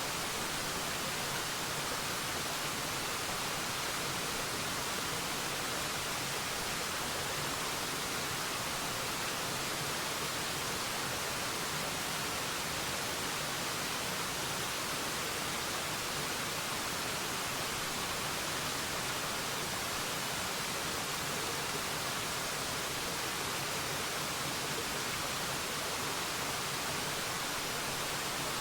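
Waterfall: a steady, even rush of falling water, with its strongest hiss in the upper range and no changes.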